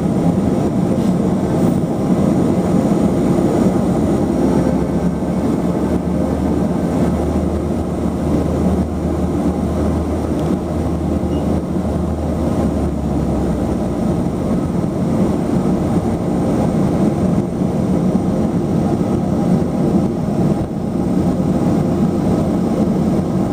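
Let L-410 Turbolet's twin turboprop engines and propellers running steadily, heard from inside the cabin. A low hum sits under the noise from about six seconds in until about thirteen seconds in.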